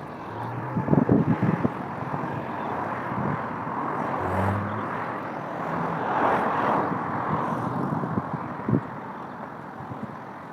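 Outdoor traffic noise: a vehicle passes, swelling to its loudest about six seconds in, with a few knocks about a second in.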